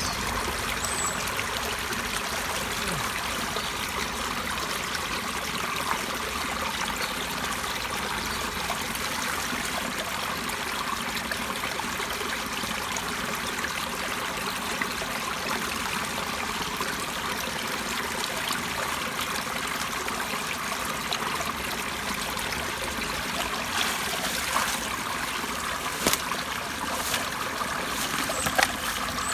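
Pond overflow water running and trickling steadily out of the spillway pipe. A few short sharp clicks or knocks near the end.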